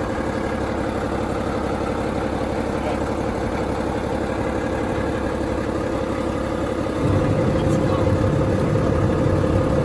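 A motor vehicle's engine running steadily with a constant hum, growing louder and deeper about seven seconds in.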